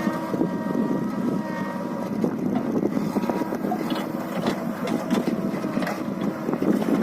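Diesel engine of a JCB backhoe loader running steadily under work, with scattered knocks and clatter from about halfway through.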